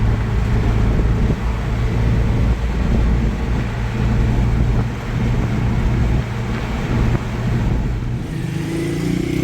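Steady low drone of a motor vehicle running, with an even rush of noise over it.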